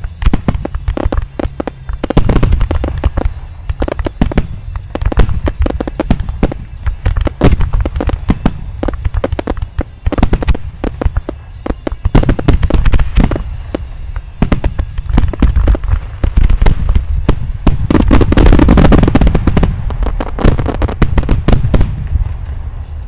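Japanese starmine fireworks: aerial shells bursting in rapid succession, a continuous barrage of deep booms and sharp cracks. It thickens into a dense volley about three-quarters of the way through, then thins out at the very end.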